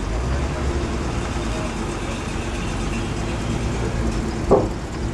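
Low engine rumble of classic cars moving at walking pace, one pulling away and a 1950s station wagon approaching. There is a single short, sharp thump about four and a half seconds in.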